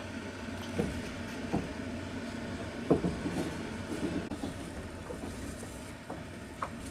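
Passenger train wheels clacking over rail joints: a steady running rumble with irregular knocks, the loudest about three seconds in, heard from inside the carriage.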